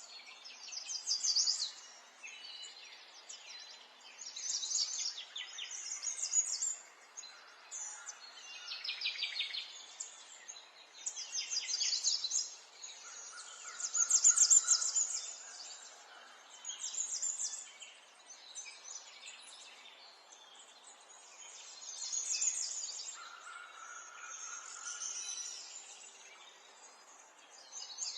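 Songbirds chirping and singing in short, rapid phrases that come every second or two, over a faint steady background hiss. A steady, lower single note is held briefly twice.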